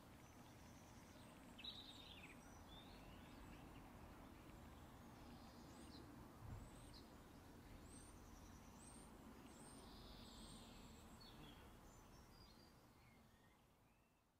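Faint birdsong over a low, steady background rumble and hiss: scattered high chirps and short falling calls, with a short chirp about once a second in the middle, then the whole sound fades out near the end.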